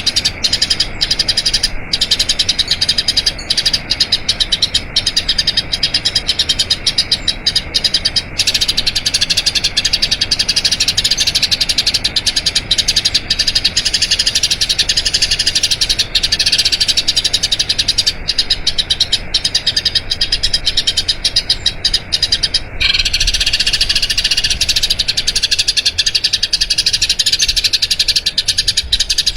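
Eurasian tree sparrows chirping in a fast, unbroken, rolling chatter of high notes, with a brief break about 23 seconds in before it carries on.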